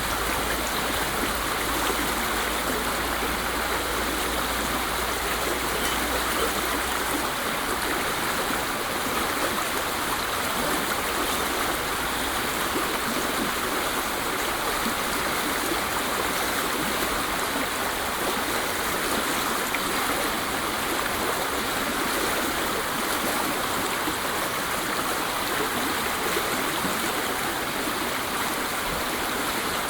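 Waterfall: a steady, unbroken rush of falling water, with a low rumble underneath that drops away about seven seconds in.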